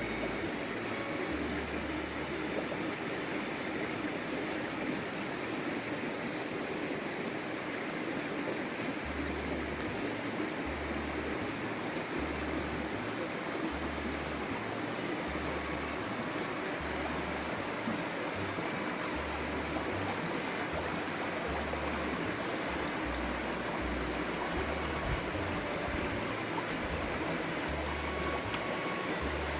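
A woodland stream running: a steady, even rush of flowing water.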